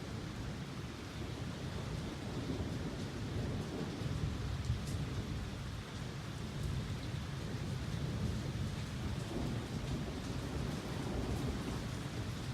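Thunderstorm: rain falling steadily under a low, continuous rumble of thunder.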